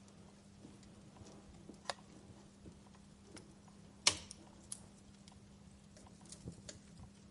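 Wood fire crackling: scattered small snaps of burning logs, with a sharp snap about two seconds in and the loudest pop about four seconds in.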